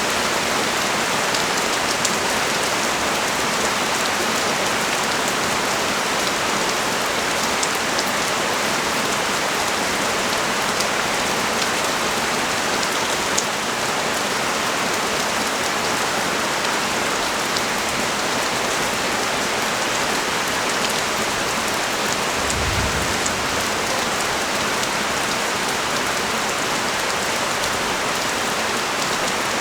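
Steady heavy rain pouring down onto the street and balcony, with scattered sharper drop ticks. A brief low rumble comes about three-quarters of the way in.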